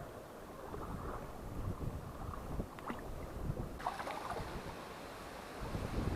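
Strong gusty wind buffeting the microphone, a low rumble that surges stronger near the end, with a few faint ticks.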